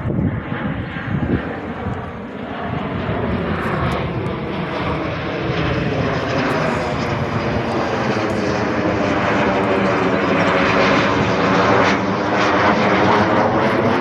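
Military training aircraft flying over: its engine sound swells steadily louder with a sweeping, phasing quality as it draws near.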